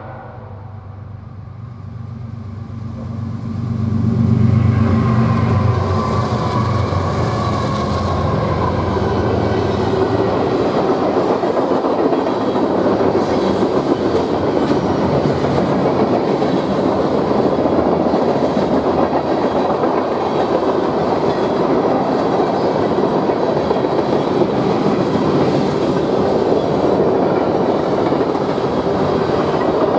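A manifest freight train passing close by. Its diesel locomotives' engine rumble grows louder over the first four seconds, then gives way to a steady rush and clatter of freight-car wheels rolling over the rails.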